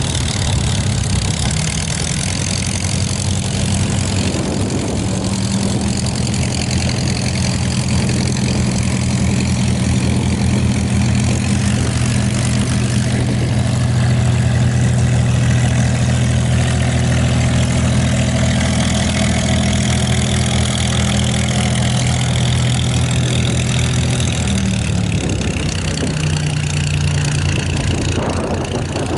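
Propeller aircraft engine running steadily with a strong even drone; its pitch shifts near the end.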